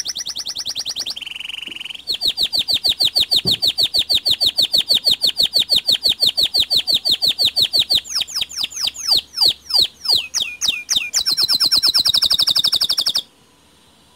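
Domestic canary singing a long rolling song: fast trills of rapidly repeated notes, then slower whistles that sweep downward about eight seconds in, then another fast trill that stops abruptly near the end.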